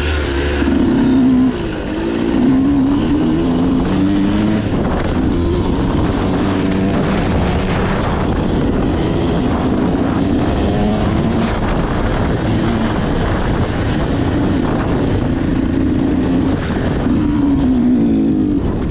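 Motocross dirt bike engine revving up and down as it is ridden, with a brief drop in revs about a second and a half in.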